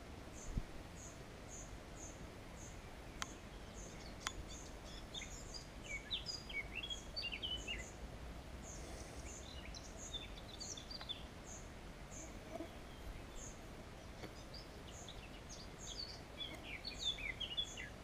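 Birds singing by a reed-lined stream: a short high note repeated about twice a second throughout, with bursts of quicker chirping song now and then, over a steady low rumble. Two sharp clicks sound about three and four seconds in.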